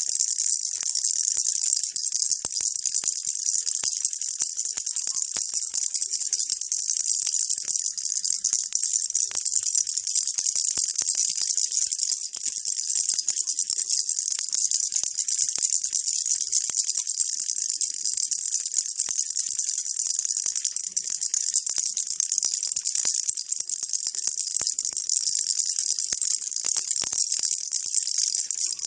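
Baby rattle shaken steadily without pause, a dense, high-pitched rattling kept up as a white-noise sound.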